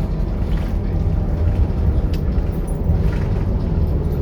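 Scania K230UB bus's diesel engine running steadily under way, a continuous low rumble.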